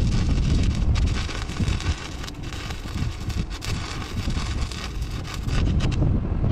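Welding arc crackling steadily as a repair plate is welded onto a steel truck fender, dipping a little in the middle and picking up again near the end.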